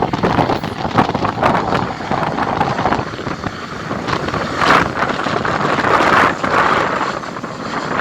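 Strong gusty wind buffeting the microphone, a loud, rough rushing that rises and falls with the gusts.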